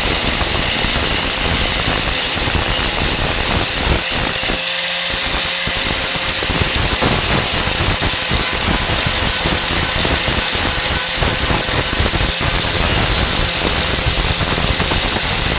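Angle grinder with a Type 27 grinding disc grinding down flux-core welds on a steel patch, with a steady motor whine under the rasp of the disc on the metal. The grinding noise eases briefly about five seconds in while the whine carries on.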